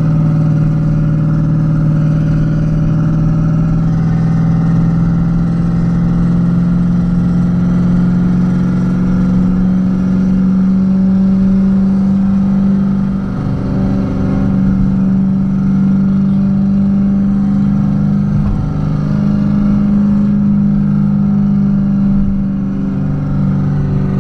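Renault Kwid 0.8's three-cylinder engine pulling the car along, a steady drone that rises slowly in pitch over the first ten seconds and then holds, with two brief dips in level about halfway through and near the end.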